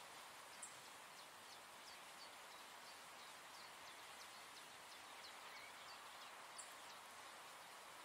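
Faint bird chirps: a string of short, high, downward-sliding notes, several a second, over a steady soft hiss, with two brief sharp ticks about half a second in and near the end.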